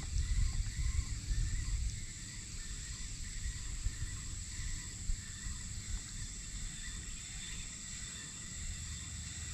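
A steady high-pitched insect chorus, with a low rumble underneath that is strongest in the first couple of seconds.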